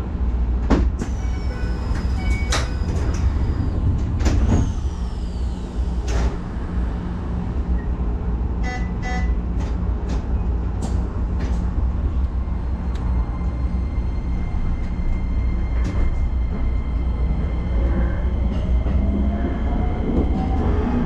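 Keisei Line electric commuter train with a steady low hum and a few sharp clicks and knocks in the first several seconds. Near the end a whine rises in pitch, as the traction motors do when the train starts to pull away.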